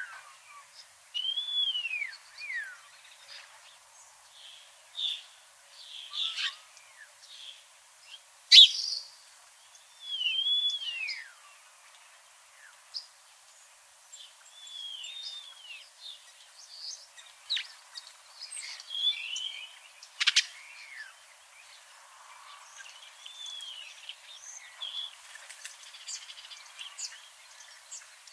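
Birds singing and calling: several whistled notes that arch up and then fall, scattered short chirps, and one sharp, loud call about eight and a half seconds in.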